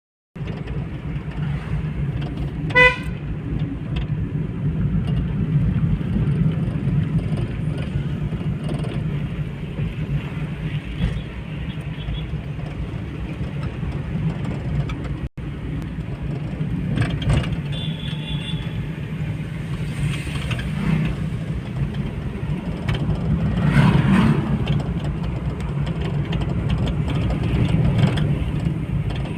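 Steady rumble of road traffic with one short vehicle horn toot about three seconds in.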